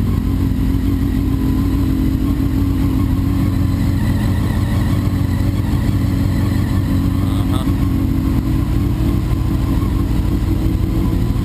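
A Honda CBR600 F4i's inline-four engine idling steadily, shortly after a cold start.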